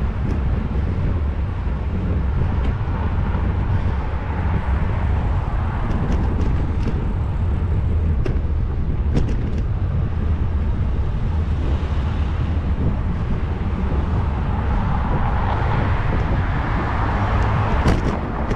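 Wind rumbling steadily on a bicycle-mounted GoPro's microphone while riding, over street traffic noise that swells and fades as vehicles pass, louder toward the end, with occasional light ticks and rattles.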